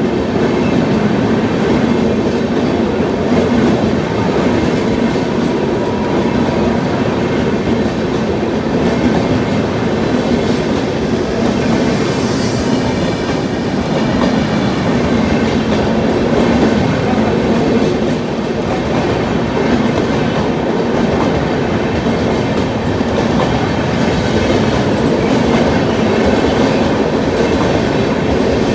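Tejas Rajdhani Express passenger train running on the rails as it departs, a steady loud rumble of wheels on track, with a brief hiss about twelve seconds in.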